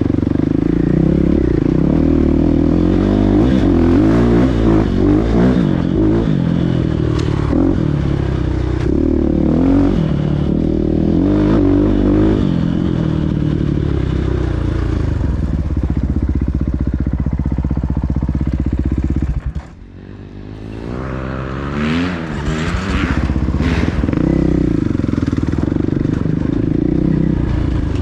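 Motocross motorcycle engines running and revving, the pitch rising and falling with the throttle. About twenty seconds in the sound drops off sharply for a second or so, then rising revs build back up.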